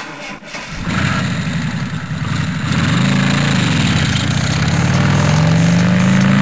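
A car engine running loud and revving, its pitch wavering up and down around the middle and climbing steadily near the end.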